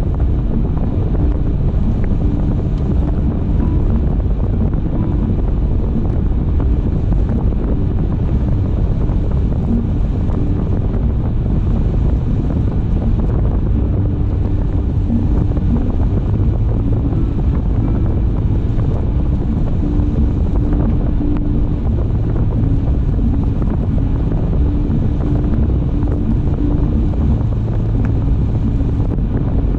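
Car driving at road speed: a steady low rumble of tyre and wind noise, with a faint engine hum that comes and goes.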